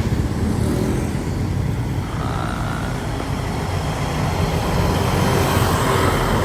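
Street traffic noise: a steady low rumble of motor vehicles running and passing.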